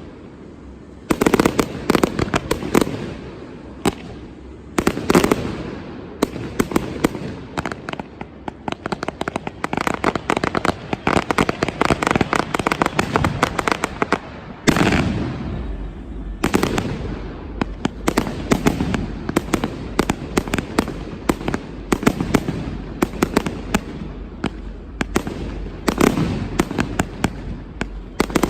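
Fireworks display: aerial shells bursting one after another, every second or so, with a stretch of dense rapid crackling near the middle.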